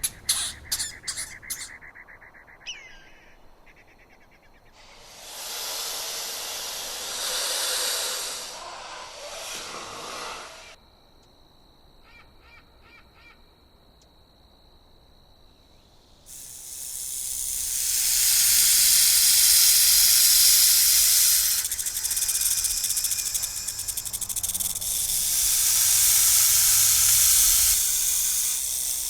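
Animal hissing: a hiss of about five seconds, then after a quiet pause a louder, longer spell of hissing that lasts about twelve seconds.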